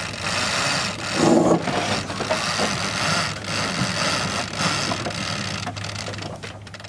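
Wind buffeting the camera microphone on a sailboat under way during a jibe, over a steady low hum, with scattered small knocks and rattles from the boat. The noise swells about a second and a half in.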